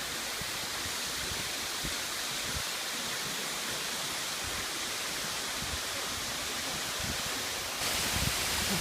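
Waterfall cascading: a steady rush of falling water, getting louder and brighter about a second before the end.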